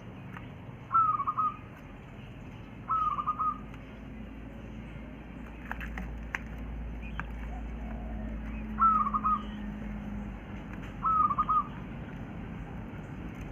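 Quail calling four times, each call a short falling note that breaks into a quick trill, in two pairs a couple of seconds apart, over a steady low hum.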